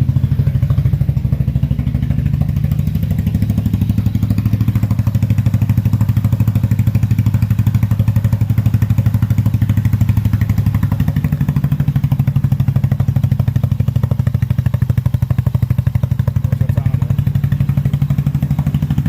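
Polaris Ace 150's small single-cylinder four-stroke engine idling steadily through an aftermarket slip-on muffler, a loud, even exhaust note.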